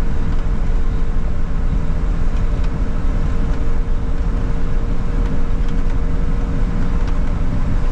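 Steady rumble of a vehicle driving along, engine and road noise together, with a faint steady whine.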